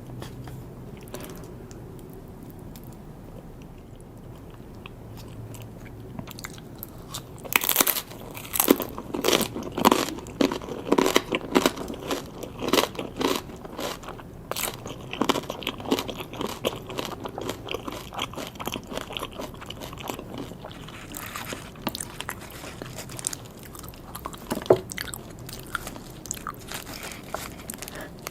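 Close-miked eating: soft chewing for the first several seconds, then loud crunchy bites and chewing from about seven seconds in, easing into steadier chewing with scattered crunches.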